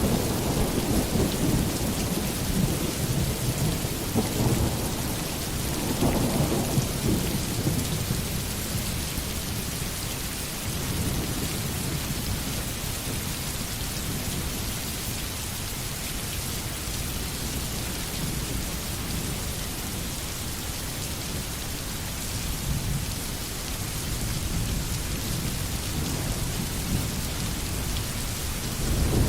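Steady rain with low rolling thunder, the rumble strongest through the first several seconds and again near the end.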